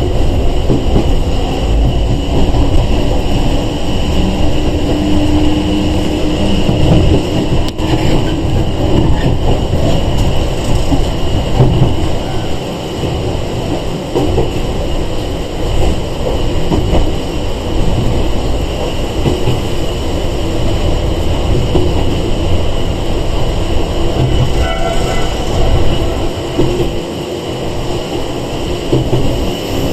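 Running noise heard inside a Sangi Railway 101 series (ex-Seibu 401 series) electric train car: a continuous rumble of wheels on rail with a steady ringing band from the running gear. A faint whine rises slightly a few seconds in.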